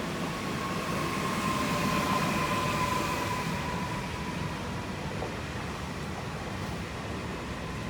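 Two coupled Newag Impuls 45WE electric multiple units rolling through the station at the end of their run. Their electric traction drive gives a steady whine that drifts slightly lower in pitch as they slow, over rolling noise.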